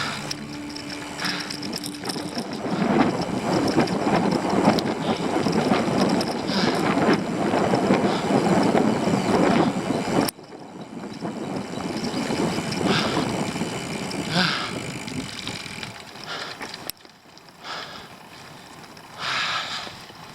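Rushing wind and road noise from a bicycle ride, falling away abruptly about ten seconds in and again about seventeen seconds in.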